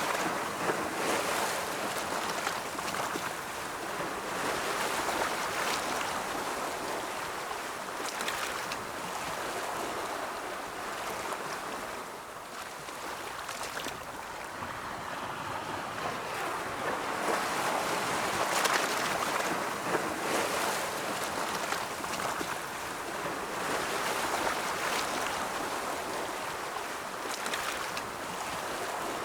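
Ocean waves washing onto a shore in a continuous rush of surf that swells and eases slowly, with a lull about twelve seconds in and a fuller swell around eighteen seconds.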